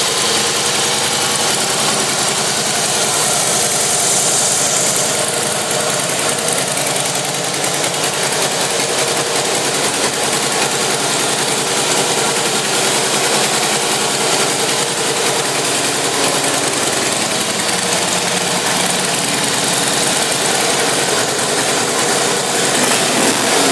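2014 Harley-Davidson Fat Boy's V-twin engine idling steadily.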